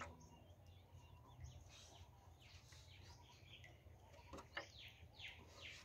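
Near silence, with faint birds chirping in the background: short falling chirps that start about a second and a half in and keep coming, and a couple of faint clicks a little past the middle.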